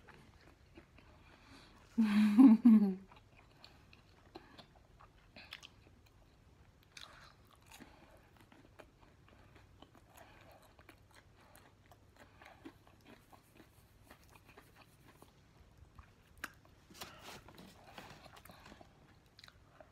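Close-miked eating sounds: faint chewing and lip smacks. About two seconds in there is one loud vocal sound from the eater, lasting about a second.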